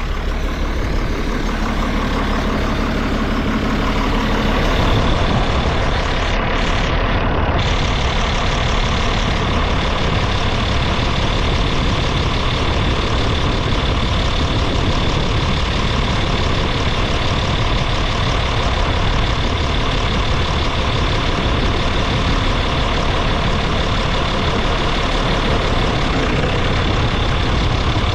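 Tractor engine running steadily while pulling an Oliver hay rake, in gear and turning, along a windrow. A thin, high, steady whine comes in over the engine about five seconds in.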